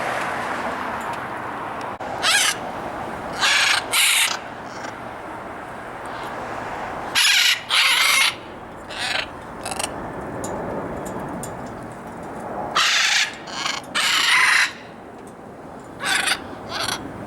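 Caged exotic parrots giving loud, harsh squawks, about a dozen calls at irregular intervals over a steady background hiss.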